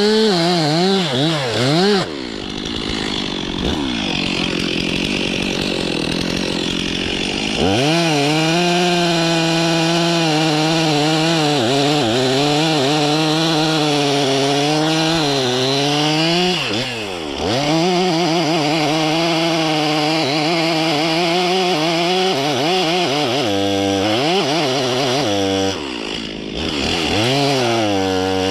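Stihl MS 362 C single-cylinder two-stroke chainsaw at high revs, cutting birch wood, its pitch wavering under load. The throttle eases off about two seconds in and opens up again around eight seconds. Near the end it is briefly let off and revved again a few times.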